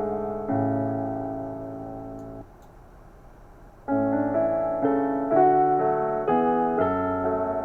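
Background piano music: slow, held chords that fade away, which stop briefly about two and a half seconds in and start again more than a second later.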